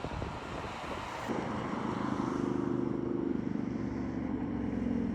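Wind buffeting the microphone for about a second, then a BMW R1250GS's boxer-twin engine running steadily as the bike is ridden.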